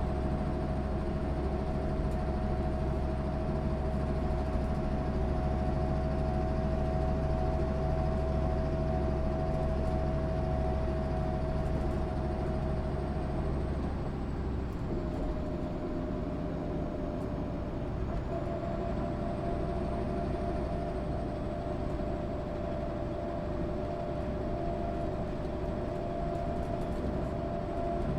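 1996 MAN SÜ 272 NCT bus's diesel engine running steadily, with a whine held above the drone. About halfway through, the low drone eases and the whine drops out for a moment before coming back.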